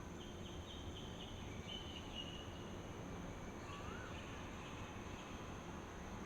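Dawn outdoor ambience: a steady high insect drone over a noisy hiss, with birds calling. One bird gives a short rising-and-falling whistle about every four seconds, and higher quick trills come in the first half and again later.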